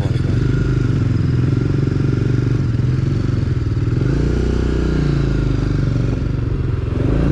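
BMW G 310 GS motorcycle's single-cylinder engine running under way, its note rising and falling with the throttle, with a change in pitch near the end.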